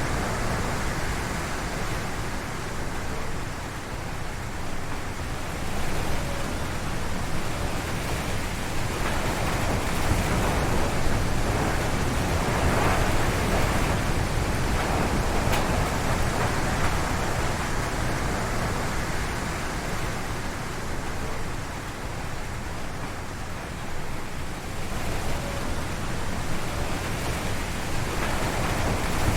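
Strong wind gusts howling through forest trees. The rushing swells and eases, loudest about halfway through, dropping back a little later and building again near the end.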